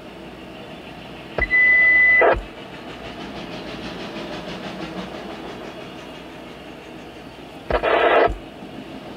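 A freight train of autorack cars rolling past, heard from inside a car as a steady rumble. Two loud, abrupt bursts of noise about a second long cut in about one and a half seconds in and again near the end, the first with a steady high whine.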